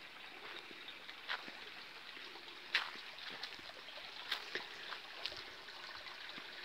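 A stream running with a steady, even rush of water, and a few short sharp clicks over it.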